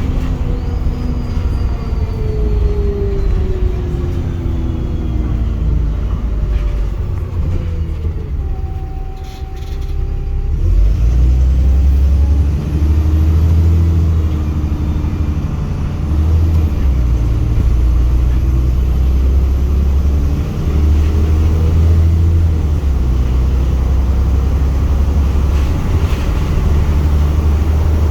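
Wright Pulsar single-deck bus with a blown exhaust. Its engine note falls as the bus slows and dips briefly about nine seconds in. It then pulls away with a deep rumble that swells and eases every second or two as the engine note climbs.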